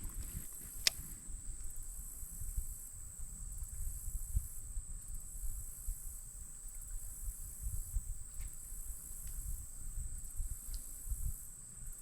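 Steady high-pitched chorus of insects such as crickets, over irregular low rumbling on the microphone, with a sharp click about a second in.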